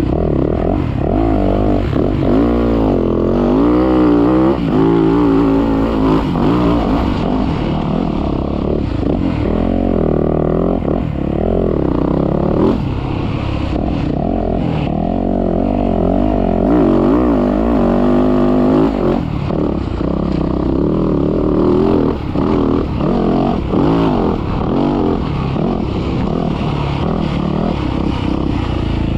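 Motocross bike engine being ridden hard, revving up and dropping back over and over as it works through the gears and throttle on a sand track, with a constant low rumble underneath.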